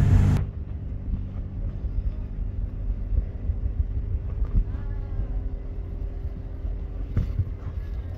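A loud rushing noise cuts off suddenly just after the start, leaving the steady low hum of an idling car engine. A faint sharp bang from distant fireworks comes near the end.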